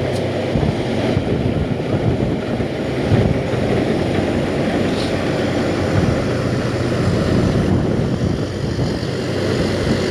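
Strong wind buffeting the microphone, a loud rumbling roar that swells and eases, with a steady low hum underneath.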